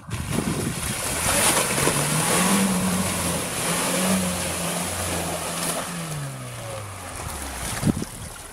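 Lada Niva 4x4's engine revving hard as it ploughs through a slush- and water-filled rut, its spinning wheels spraying slush and water. The engine pitch climbs, holds, then falls away as the car passes. A single sharp knock comes near the end.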